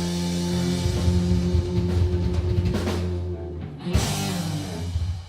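Southern rock band playing, drums and electric guitar, ending on a big drum hit and sustained chord that cut off at the very end.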